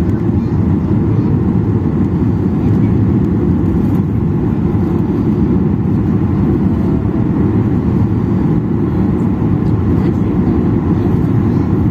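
Steady cabin noise inside a Boeing 737-800 in flight: a low, even rumble of CFM56-7B engines and rushing airflow.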